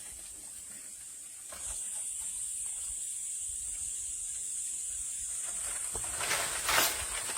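A steady high-pitched hiss that grows stronger about a second and a half in, with a brief rustle or knock near the end.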